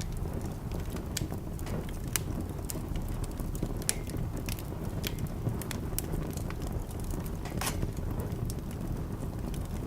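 Wood fire in a fireplace crackling, with irregular sharp pops over a steady low rumble of burning.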